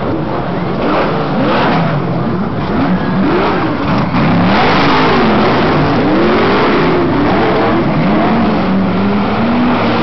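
Off-road trophy truck engine revving, its pitch rising and falling several times as the throttle is worked. It gets louder about a second in.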